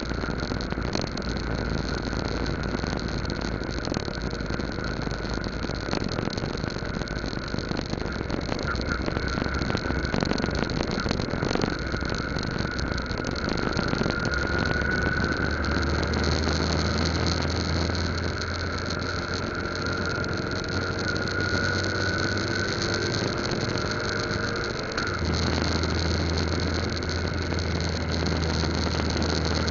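Yamaha Lagenda 115Z's single-cylinder four-stroke engine running as the bike rides along, with steady road and wind noise. The engine note slowly rises and falls midway, and the low hum grows heavier, dropping off briefly near the end.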